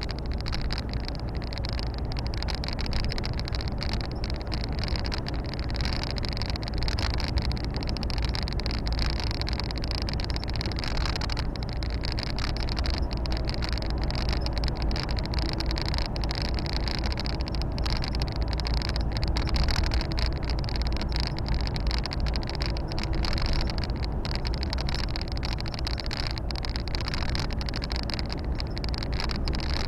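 Volvo FH 460 truck's 13-litre six-cylinder diesel engine and tyre and road noise, heard from inside the cab while driving: a steady low drone that holds even throughout.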